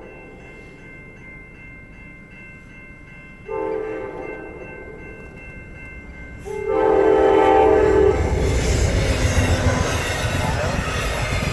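Amtrak P42DC locomotive horn sounding two blasts, the second louder and longer, then the short passenger train rushing past close by with engine and wheel noise on the rails. The blasts are the warning for the road crossing.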